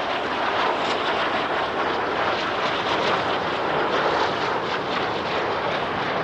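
Jet aircraft flying past, a steady, loud roar of jet engine noise.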